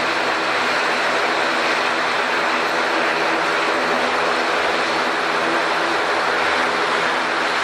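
Airliner engines running steadily nearby: a loud, even drone with a few steady humming pitches underneath.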